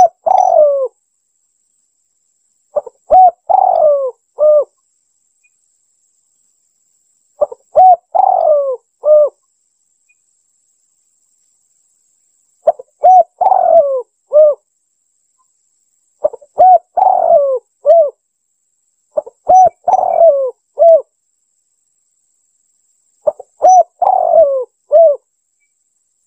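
Spotted dove (tekukur) cooing: seven repeated phrases, each a run of several coo notes, about every three to four seconds, played as a lure call.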